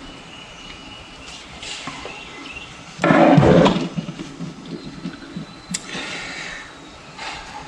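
Tools and metal engine parts clinking and scraping during a hand teardown of a two-stroke jet-ski engine on a bench, with one loud, harsh scraping noise about three seconds in that lasts under a second.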